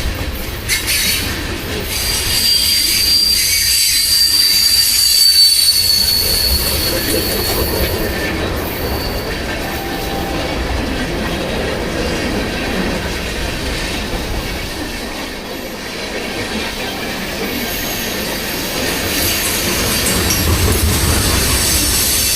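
Freight train cars rolling past on steel wheels: a steady rumble with rail clatter, and a high, thin wheel squeal from about two to six seconds in that slides slightly down in pitch, with fainter squeals later.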